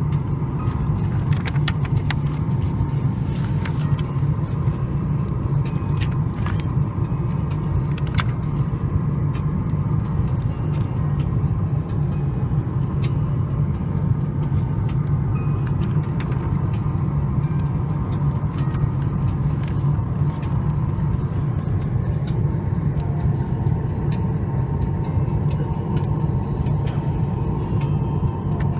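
Cabin noise inside a Boeing 737 MAX 8 airliner: a steady low rumble with a faint steady whine above it, and scattered light clicks and knocks.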